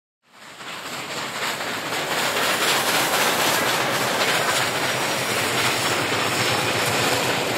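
Train running on the rails, a steady rush of wheel-on-rail noise that fades up over the first two seconds and begins to fade near the end.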